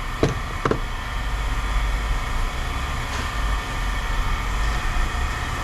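Steady low mechanical rumble and hum of running machinery or an idling engine, with two sharp knocks in the first second.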